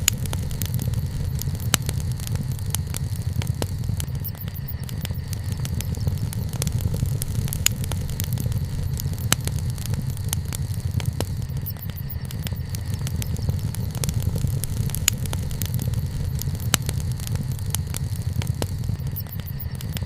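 Campfire burning with a steady low rumble and frequent irregular sharp crackles and pops.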